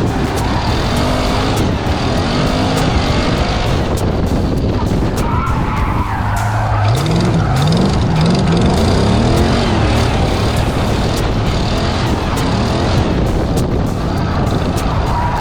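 LS V8-swapped Nissan S14 drifting: the engine revs up and down again and again over a steady hiss of skidding tyres.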